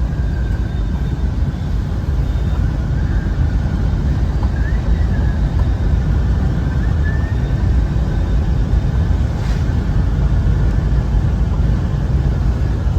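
Steady low rumble of road and wind noise from a car driving along.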